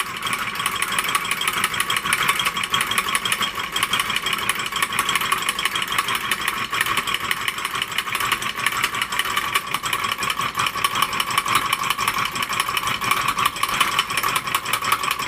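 Reichelt twin-cylinder hot air (Stirling-type) engine running steadily, a fast, even mechanical clatter from its moving parts. Its timing is set right and it runs just fine.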